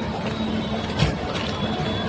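Steady vehicle rumble with a faint held tone over it, and a single sharp knock about a second in.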